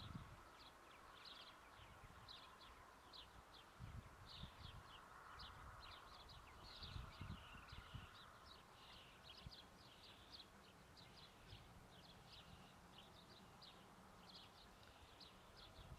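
Faint birdsong: many short, high chirps repeating throughout, over a faint low rumble.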